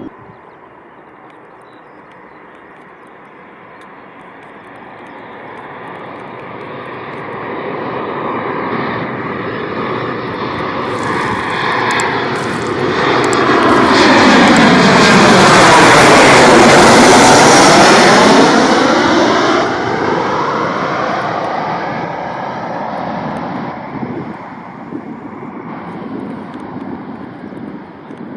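Jet aircraft flying low past: engine noise swells over about ten seconds, is loudest about two-thirds of the way in with a sweeping, phasing sound, then fades away.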